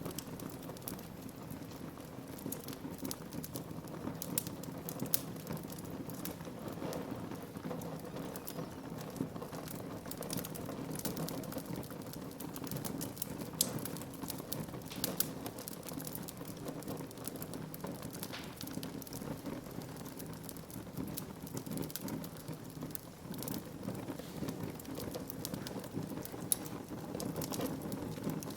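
Wood fire burning in a fireplace: a steady low rush under frequent sharp crackles and pops.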